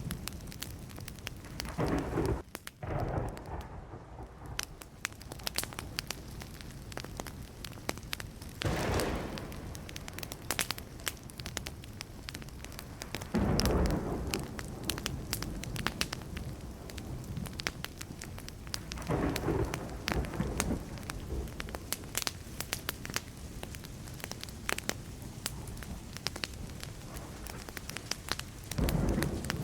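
Wood fire crackling and popping all the way through, with thunder rumbling in about five separate swells.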